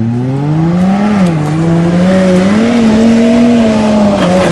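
A vehicle engine revving hard and held at high revs. Its pitch climbs over the first second, then wavers up and down.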